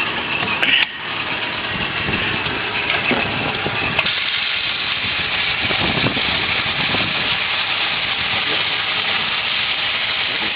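Nissan 30 outboard motor idling steadily in neutral.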